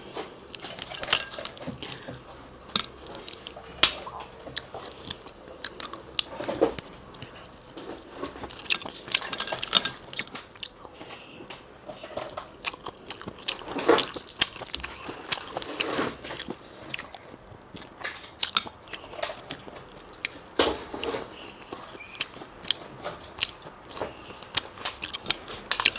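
Close-up chewing and biting of steamed shellfish, with irregular mouth clicks and smacks and a few louder crunchy bites.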